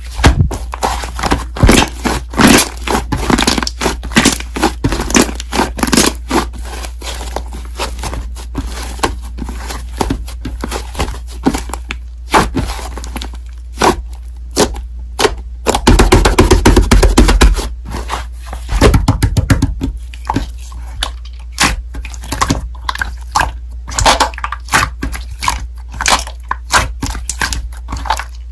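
Slime being squished, stretched and poked by hand, giving dense, irregular crackling clicks and pops, over a steady low hum.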